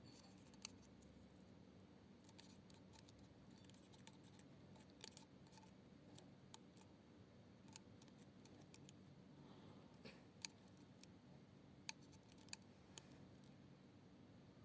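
Near silence with a faint steady hum, broken by scattered small sharp clicks and ticks at irregular intervals, the loudest three clustered in the last few seconds.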